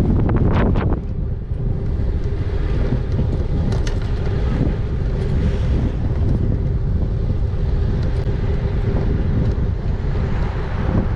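Wind buffeting the microphone of a moving e-bike, with a faint steady hum underneath and a brief rattle about half a second in.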